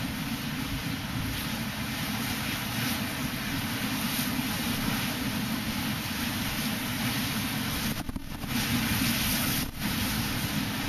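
Strong wind buffeting the microphone over the steady rush of heavy sea waves breaking over harbour breakwaters. The buffeting drops away briefly twice near the end.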